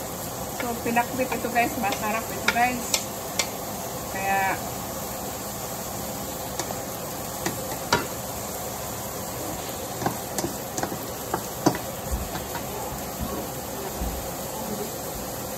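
Diced onions sizzling in hot oil in a stainless steel pan as they are sautéed, with the spatula scraping and clicking against the pan as they are stirred. A few short squeaky pitched sounds come in the first few seconds.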